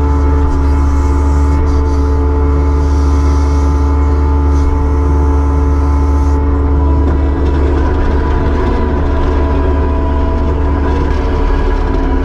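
Kubota SVL75-2 skid steer's diesel engine running steadily and loud, with a strong low hum. A hiss in the upper range dies away about six seconds in.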